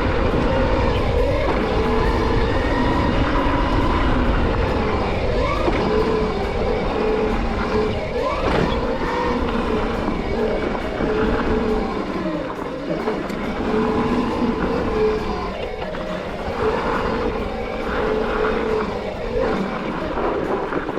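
Gowow Ori electric dirt bike being ridden: a steady electric motor whine over low wind and tyre noise. The rumble eases off about halfway through.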